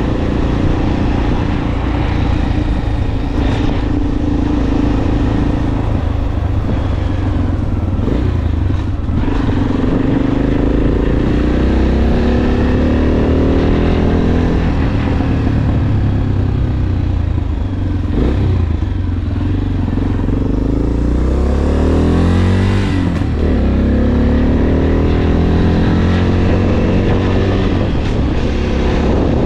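Motorcycle engine running on the move, its pitch climbing several times as it pulls through the gears and dropping back in between, under a constant low wind rumble on the microphone.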